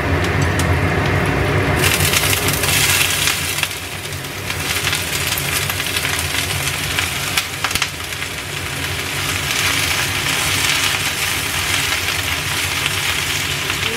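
Shredded baby napa cabbage tipped into hot oil in a frying pan: a loud sizzling hiss bursts up about two seconds in and carries on while the cabbage is stirred with chopsticks. A steady low hum runs underneath.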